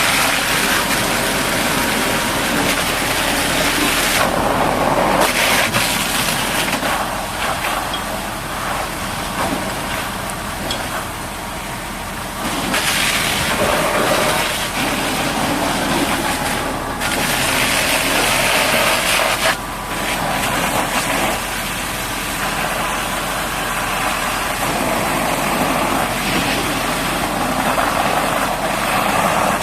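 High-pressure water jet spraying the mud off a bulldozer, a hissing spray that swells and drops several times as the jet moves across the machine, over a steady engine hum.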